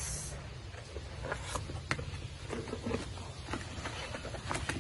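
A placemat being handled and wrapped around a cut plastic beach bucket: light rustling with scattered small clicks and taps, over a steady low hum.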